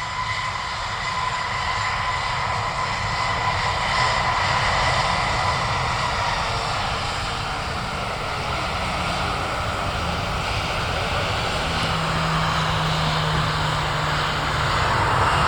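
Boeing P-8 Poseidon's twin CFM56 turbofan engines running steadily on the ground after landing. A high whine fades out about six seconds in, and a low hum joins near the end.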